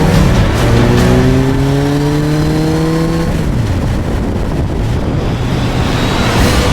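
Suzuki GSX1250FA's inline-four engine accelerating, its pitch climbing steadily for about three seconds, then falling off as the throttle is closed, leaving wind rush.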